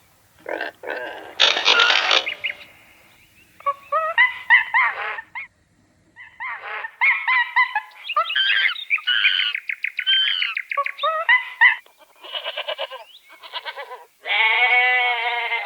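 A run of different animal calls cut one after another: a short noisy burst, then several bouts of pitched honking or bleating calls, and near the end a long, steady bleat that carries on.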